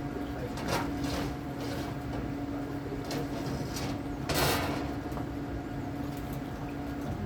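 Steady low hum of the electric trimaran's battery-driven motor over a low rumble of wind and water, cutting out just before the end. There are two brief rushing swishes, about a second in and again after four seconds, the second the louder.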